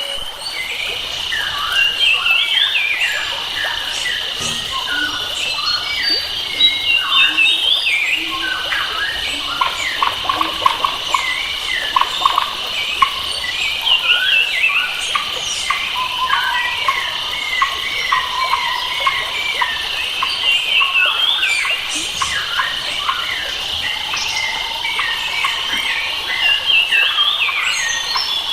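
Several wild forest birds singing together in many overlapping chirps and whistles, over a steady high drone of insects.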